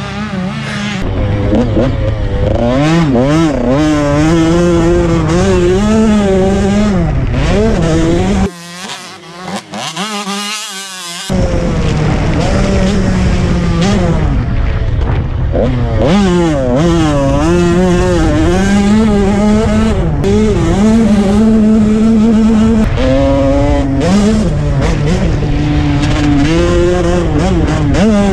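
Husqvarna TC 85 two-stroke motocross bike engine revving up and down hard as it is ridden round a track, heard from a camera on the bike over heavy wind rush. About eight seconds in the engine sound drops away for roughly three seconds, then comes back at full throttle.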